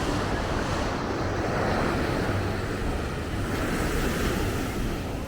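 Ocean surf washing onto the beach in a steady rush, with wind buffeting the microphone as a low rumble.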